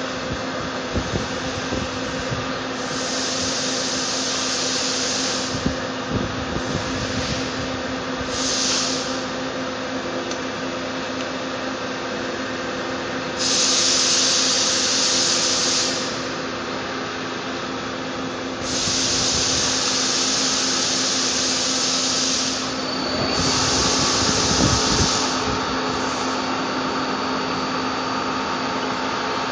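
Doosan Puma 350 CNC turning center running with a steady hum, broken by several hissing bursts of one to three seconds each and a few light clicks.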